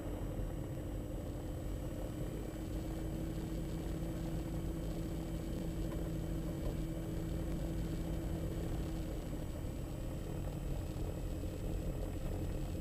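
The Diamond DA42 NG's twin turbo-diesel engines run steadily at low taxi power as a low drone. A steady hum sits in the drone until about nine seconds in, then drops away.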